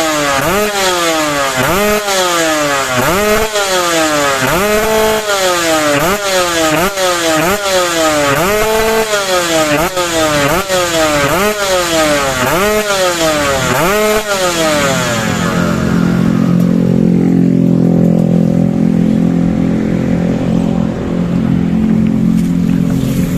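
Kawasaki Ninja RR 150's single-cylinder two-stroke engine, breathing through an aluminium DTX51 silencer and an expansion chamber, revved in quick throttle blips about once a second, each climbing sharply and falling back. About two-thirds of the way in it settles into a steady, lower-pitched run.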